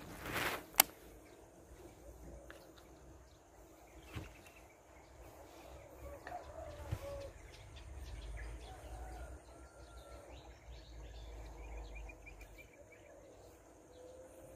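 Faint outdoor ambience with a few bird calls around the middle and a low rumble in the background. A brief swish and a sharp click open it.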